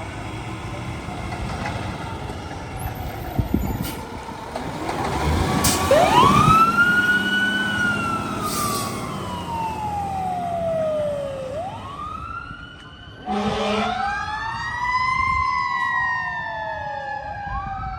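Fire engine siren over the rumble of the truck's engine. The siren winds up quickly, then falls slowly in pitch over several seconds and winds up again. A short, loud blast sounds a little past two-thirds of the way through.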